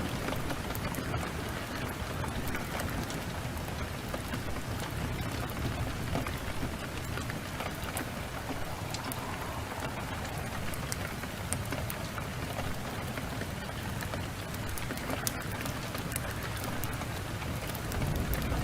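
Heavy rain falls steadily, with scattered sharp crackles from a wood fire. A low rumble of thunder swells near the end.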